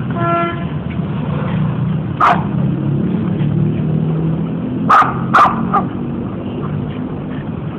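Kintamani dog barking: one bark about two seconds in, then three quick barks about five seconds in, over a steady low hum.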